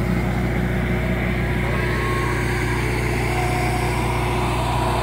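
Soft serve ice cream truck idling, a steady low hum.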